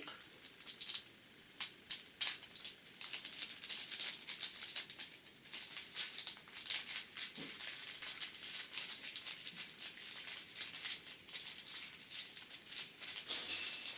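Tiny beads rattling and trickling, a dense stream of light clicks.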